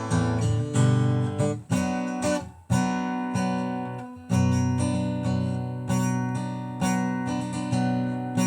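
Acoustic guitar strumming chords in a song's instrumental passage between sung lines.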